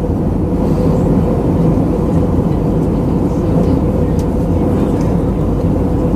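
Steady cabin noise of an Airbus A319-112 airliner in flight: the deep drone of its CFM56 turbofan engines and airflow, with a steady hum tone running through it.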